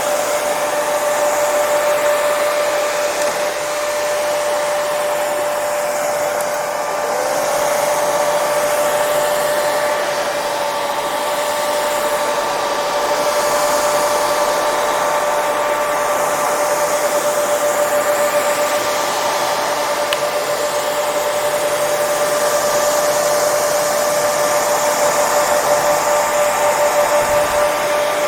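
Hair dryer running continuously: a steady rush of air with a constant motor whine, the hiss swelling and easing slightly every few seconds.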